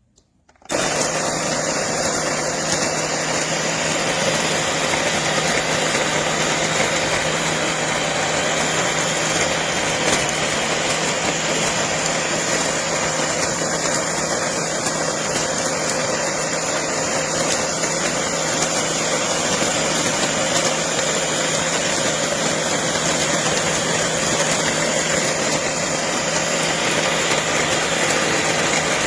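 Electric burr coffee grinder switching on under a second in and running steadily: a loud, even motor whir with a constant hum.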